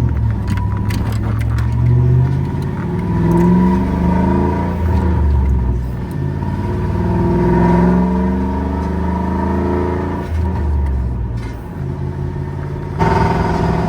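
Engine of a manual-transmission pickup truck heard from inside the cab while driving, its note rising and falling as it pulls, with brief dips about six and ten seconds in.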